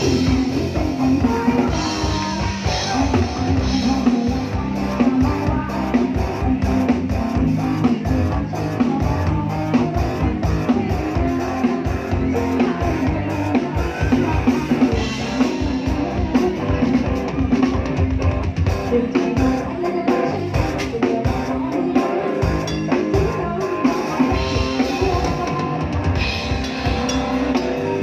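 Live band music: drum kit and electric guitar playing with a steady beat.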